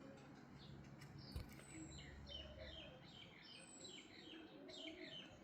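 Faint songbirds chirping, with quick runs of short repeated notes and a few thin, high whistles that fall in pitch. A single sharp click comes about a second and a half in.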